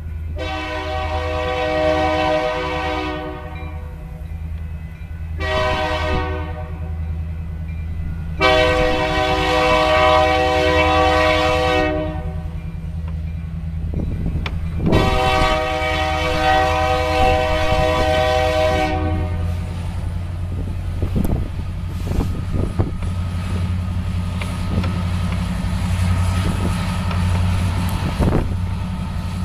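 Diesel freight locomotive's air horn sounding four blasts, the second one short, over the steady low running of the locomotive engines. After the last blast, about two-thirds of the way in, the train rolls past with steady wheel-on-rail noise and occasional clanks.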